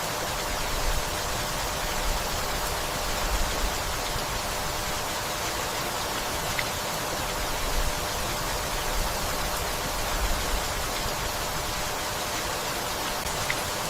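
Steady rainfall, an even hiss with a few faint ticks of single drops.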